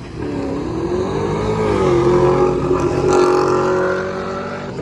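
A car engine revving hard under acceleration. Its pitch dips and climbs in the first two seconds, then holds steady, and it is loudest in the middle before easing off near the end.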